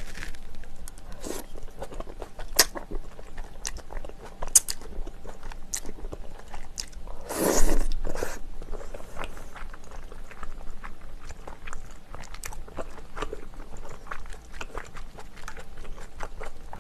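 A person chewing and biting food close to the microphone, with many small wet mouth clicks. About halfway through there is one louder, noisier sound that lasts about a second.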